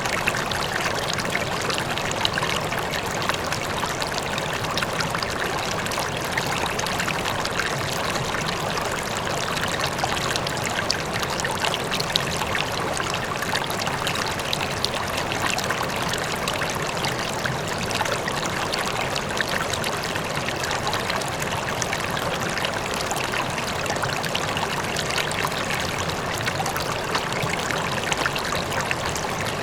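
River flowing, a steady rush of water with fine splashing and trickling, and a faint waterfall in the distance.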